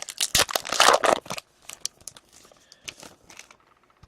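A hockey card pack's wrapper being torn open and crumpled: a loud burst of tearing and crinkling lasting about a second, then lighter crinkles and small clicks as the cards are handled.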